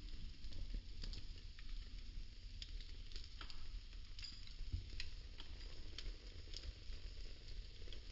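Burning popsicle sticks crackling: irregular small pops and snaps, a few a second, over a low rumble.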